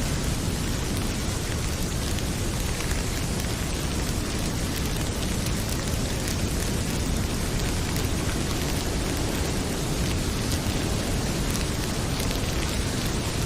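Heavy rain pouring steadily with a deep low rumble, mixed with the light scattered crackle of a wood fire in a fireplace.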